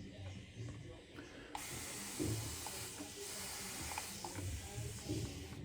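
Water running from a tap in a steady hiss, switched on about a second and a half in and shut off near the end, with a few soft low knocks beneath it.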